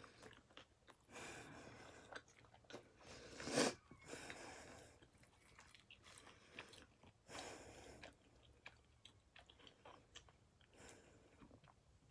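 A person chewing battered fried calamari close to the microphone: soft, irregular crunching and wet mouth sounds. A louder crunch comes about three and a half seconds in.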